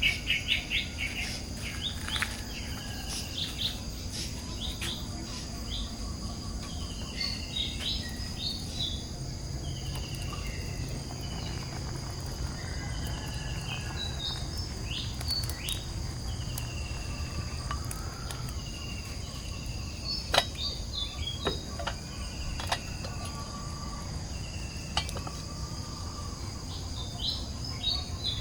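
Steady high-pitched drone of crickets and other insects, with short falling calls repeating every second or two. There are a few sharp clicks about twenty seconds in.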